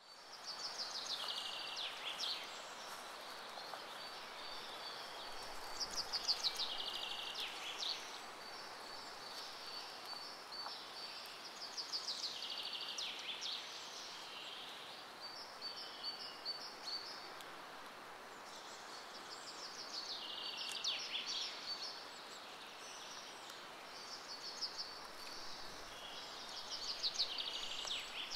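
Outdoor nature ambience: a bird sings the same high trilled phrase, ending in quick falling notes, about every six to seven seconds over a soft steady hiss.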